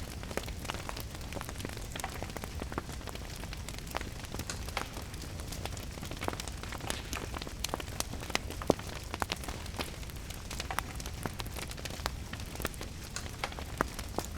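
Wood fire in a fireplace crackling, with frequent irregular sharp pops, over the steady hiss of rain.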